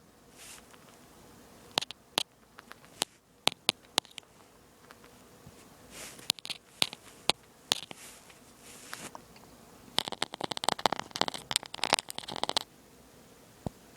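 Cockatiel making scattered sharp clicks and taps, then a fast, dense run of clicks lasting about two and a half seconds from about ten seconds in.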